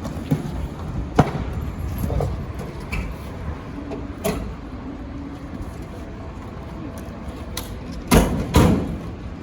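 Fire command vehicle's engine running steadily, with a few sharp clicks and knocks. Two loud thumps come near the end, half a second apart.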